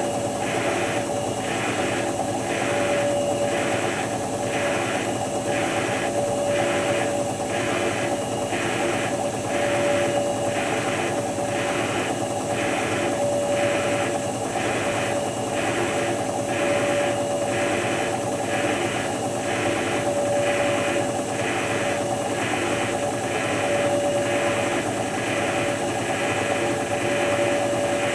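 Hotpoint HF8B593 washing machine running through the rinse and spin of a synthetics cycle: a steady motor whine with a regular swish about one and a half times a second.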